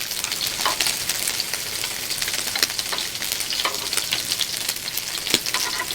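Makchang (grilled intestines) sizzling in a hot pan, a steady crackle with many small pops.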